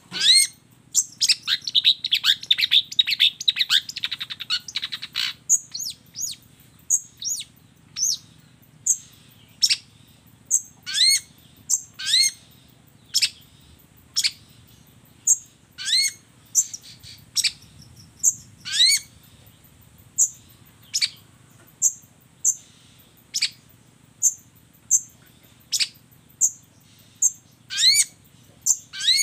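Long-tailed shrike (cendet) song: loud, short calls sweeping upward in pitch, repeated roughly once a second. A fast chattering trill comes about a second in and lasts a few seconds, and short high notes fall between the calls.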